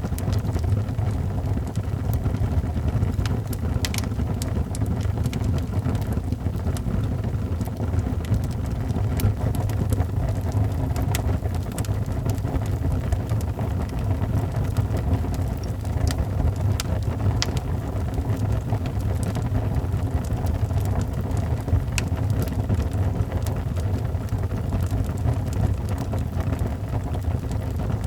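Wood fire in a fireplace burning with a steady low rumble and scattered crackles and pops.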